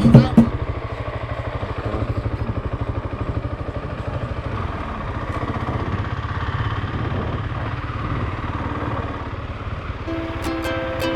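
Motorcycle engine running steadily under way, its low, even firing pulse with the wind and road noise of riding. Plucked-string music fades in near the end.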